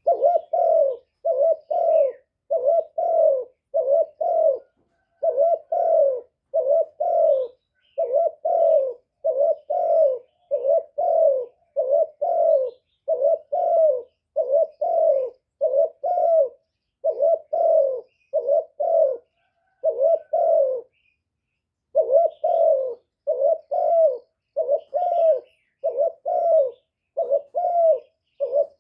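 Spotted dove cooing: a long series of short, low coos, more than one a second, broken by a pause of about a second roughly two-thirds of the way through.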